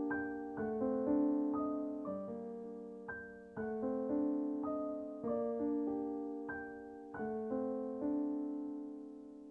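Background music: a slow solo piano piece, struck notes and chords ringing out and decaying.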